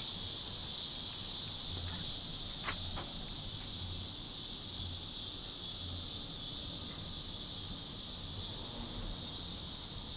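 Steady high-pitched chirring of an insect chorus, with a couple of faint clicks about three seconds in.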